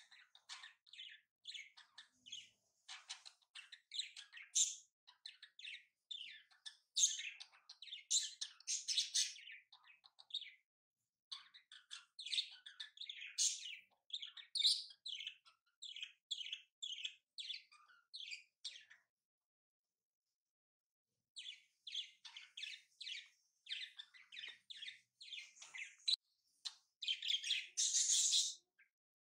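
Small birds chirping and twittering in quick, busy runs of short calls, with a pause of a couple of seconds about two-thirds through.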